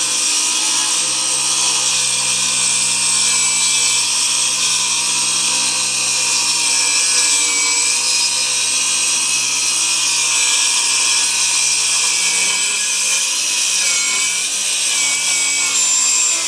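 Circular saw running steadily through a long rip cut in lumber, following a chalk line, cutting off sharply at the end.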